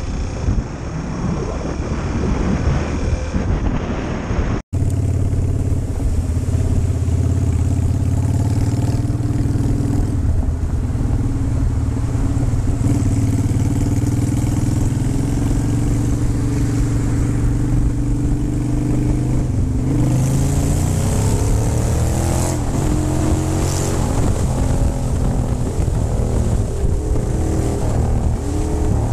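Motorcycle engine running at a steady pitch under loud wind noise, after a sudden cut about five seconds in; about twenty seconds in the engine note rises as the bike accelerates.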